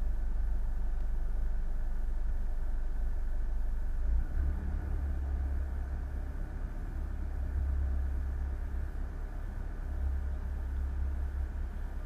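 Boat engine running steadily under a low rumble, which shifts in character about four seconds in.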